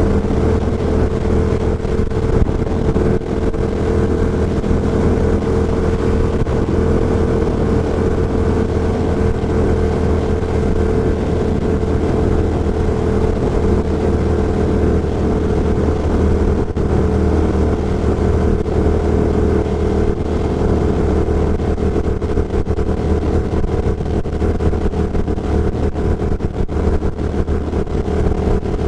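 Ducati Diavel Carbon's V-twin engine, fitted with an Austin Racing GP2 exhaust, running at a steady pace under way, heard from a microphone inside the rider's helmet over a steady rush of wind and road noise.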